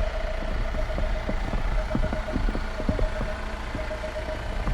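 Volvo XC40 running at low speed in reverse on snow, a low engine rumble under many irregular clicks and knocks. Over it, a parking-sensor warning beeps rapidly and steadily, warning of an obstacle close behind.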